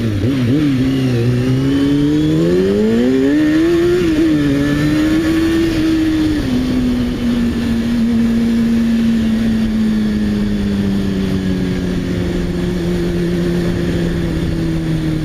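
Sports motorcycle engine pulling away hard, its pitch climbing for the first four seconds with short dips at the gear changes. It drops again at about six seconds, then holds a steady cruise with the pitch slowly sinking, over a constant rush of wind and road noise.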